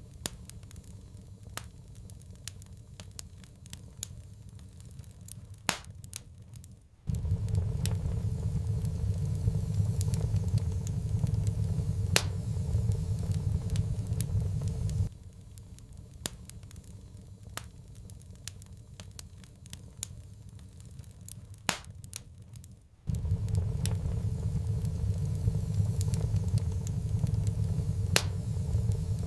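Wood fire crackling in a fireplace, with scattered sharp pops. A low rumble cuts in abruptly about seven seconds in, drops out about halfway, and comes back near the end.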